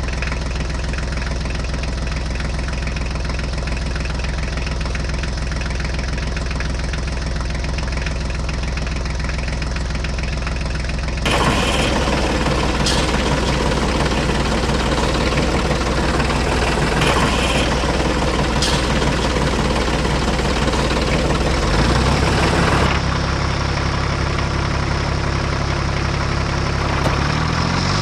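Small motor of a miniature DIY machine running with a steady hum. The sound changes abruptly to a louder, busier running about 11 seconds in, and again about 23 seconds in.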